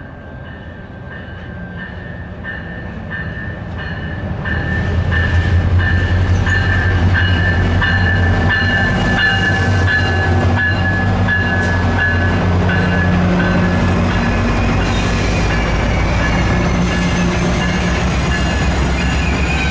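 MARC commuter train, hauled by a diesel locomotive, approaching and passing close by. The engine's low rumble builds over the first five seconds and then holds steady under the clatter of the wheels on the rails, and a thin high squeal from the wheels on the curve runs through the first half.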